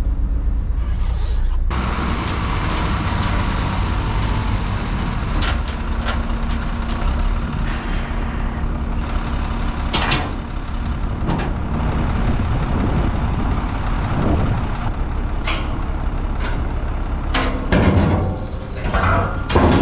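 Heavy diesel truck running steadily, with a few short sharp noises near the middle and toward the end.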